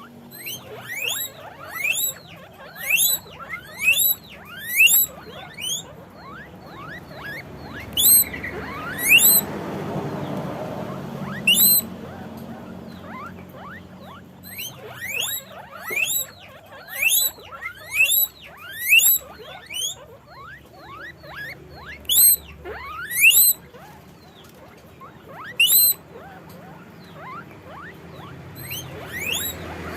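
Guinea pigs squeaking: a long run of short, loud squeals, each sweeping sharply up in pitch, repeated about once or twice a second with a few pauses.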